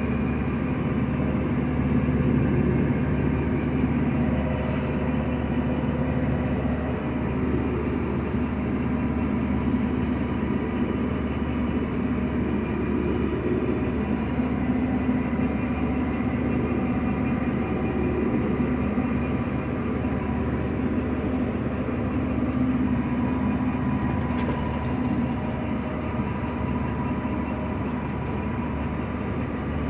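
Combine harvester running steadily, a continuous engine and machinery drone, with a faint high whine for a while in the middle.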